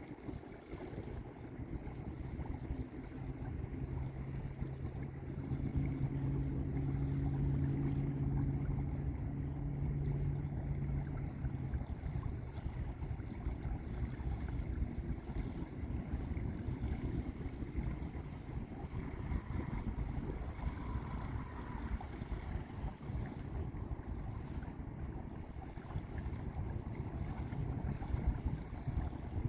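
Small lake waves washing onto a beach in a continuous, uneven rush. A steady low hum sits under the water sound for the first twelve seconds or so, then fades.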